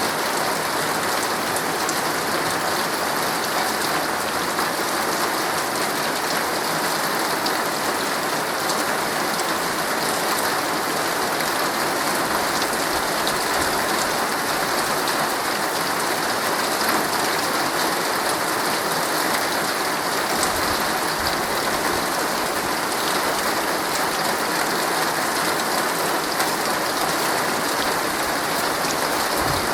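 Heavy rain falling steadily on a tent, a dense even patter of drops on the fabric.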